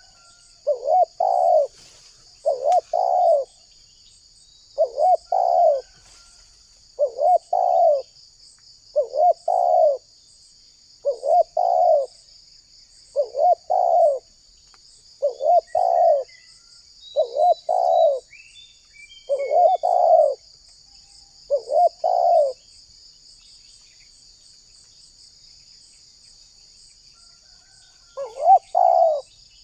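Spotted dove cooing its repeated song, short coo phrases about every two seconds. The cooing stops a little past the middle and starts again near the end. A steady high buzz runs underneath.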